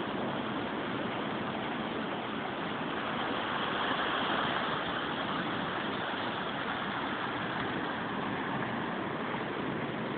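Steady rushing noise of typhoon wind and heavy surf on the coast, swelling slightly about four seconds in.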